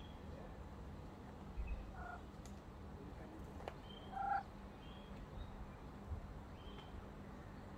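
Sparse morning birdsong: scattered short, high chirps, with two brief, lower calls about two seconds in and about four seconds in, the second the loudest.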